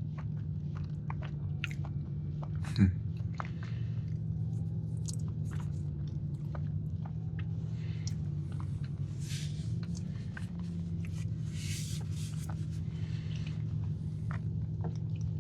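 Close-up chewing and mouth clicks of someone eating a soft, underbaked cookie, over a steady low hum. One louder knock comes about three seconds in.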